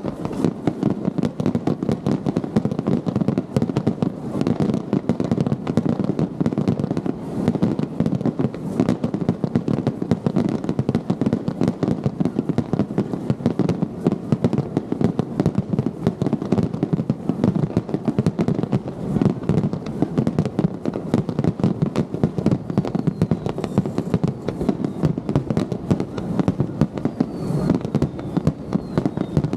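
Wide starmine fireworks barrage: a dense, continuous run of aerial shell bursts booming and crackling without a break. A few faint descending whistles come near the end.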